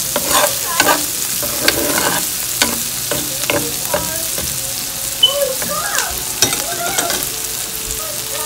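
Shrimp with onion, garlic and scallions sizzling in hot oil in a pot, with a spoon repeatedly knocking and scraping against the pot as the mixture is stirred.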